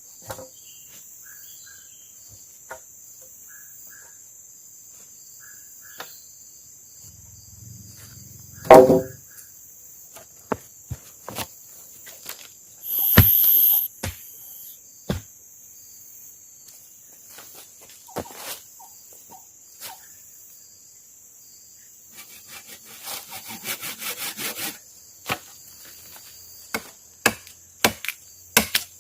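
Steady high drone of crickets and other insects, broken by scattered knocks and handling sounds, one heavy thud, and a quick rattle of clicks. Sharp chopping strikes start near the end.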